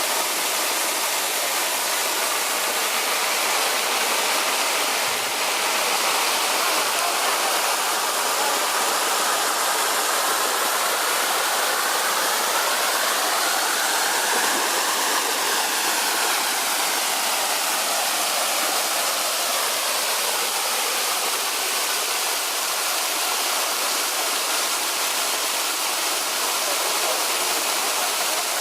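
Water of the Kobalar-Su river falling at the Kozyrek waterfall: a steady, even rush. Its tone shifts gently around the middle.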